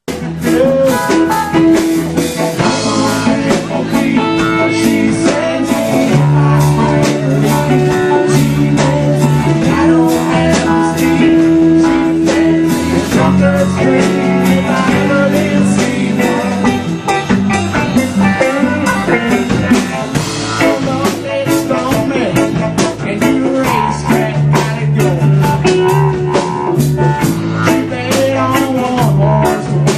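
Live band playing full out: guitar over bass and a drum kit keeping a steady beat.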